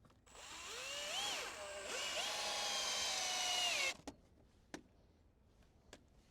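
Electric drill running: the motor spins up with a rising whine, drops briefly as it loads, then runs steady for about two seconds before winding down and stopping. A few sharp clicks follow.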